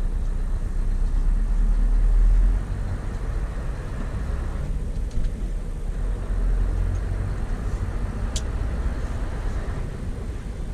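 Scania V8 diesel engine of a heavy 8x4 tanker truck running under way with a deep low rumble; the engine note drops in level about two and a half seconds in. A single sharp click sounds near the end.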